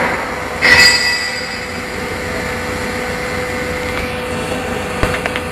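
Automatic circular seam argon arc (TIG) welding machine running: a steady hum and hiss with one constant tone. A short, loud burst of hiss comes about three quarters of a second in, and a few sharp clicks come near the end.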